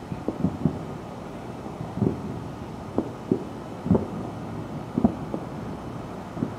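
Distant fireworks going off in a quick series of low booms and pops, about ten in the space of six seconds: a grand finale.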